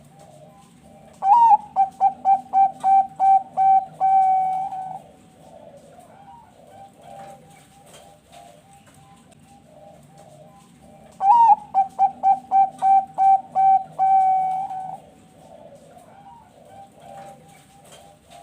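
Zebra dove (Thai perkutut bangkok) singing two cooing phrases about ten seconds apart. Each opens with a rising note, runs into a quick string of about eight short clipped coos and ends in one longer held note. Softer dove cooing carries on in the background between the phrases.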